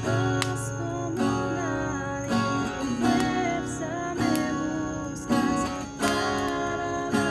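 Acoustic guitar strummed in chords about once a second, with a wavering melody line above that is most likely a voice singing.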